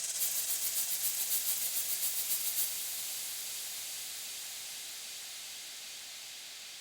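A hissing white-noise sweep from the soundtrack, pulsing quickly for the first couple of seconds, then fading steadily until loud electronic music cuts in at the very end.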